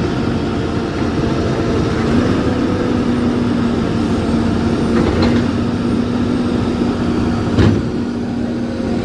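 Heavy truck's diesel engine running steadily under load, with a single sharp knock about seven and a half seconds in.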